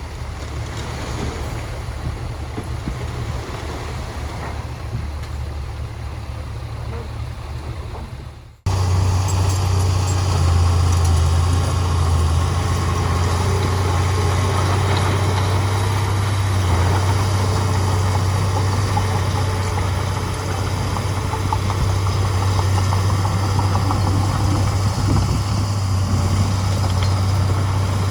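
Heavy diesel engine of earthmoving machinery running steadily. About a third of the way in the sound cuts abruptly. Before the cut the engine is fainter under wind noise on the microphone; after it the engine is louder and closer, a steady low drone.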